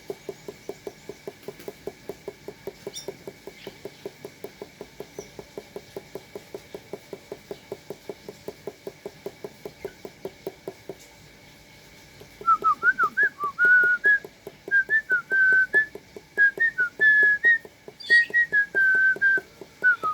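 A low, even pulsing, about five beats a second, runs for the first eleven seconds or so and then stops. About twelve seconds in, a person starts whistling: short, loud, wavering notes in a quick, bird-like run.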